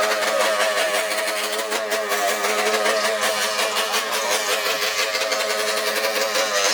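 Small off-road vehicle engines running steadily, their pitch wavering slightly.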